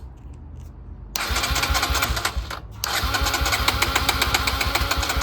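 Electric starter cranking the single-cylinder four-stroke engine of a 2009 Kawasaki KLX140L dirt bike with a rapid chugging beat: a short crank of about a second and a half, a brief stop, then cranking again. The engine does not catch, because the spark plug is still unplugged.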